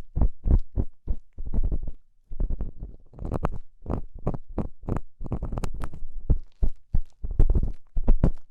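Ear-cleaning tool scraping and rubbing in the ear of an ASMR ear microphone in quick repeated strokes, about two to three a second. Each stroke is a crackly scratch over a deep, muffled rumble.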